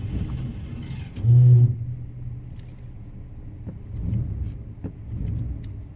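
Car engine catching after repeated cranking with a short loud burst about a second and a half in, then running steadily, while keys jangle.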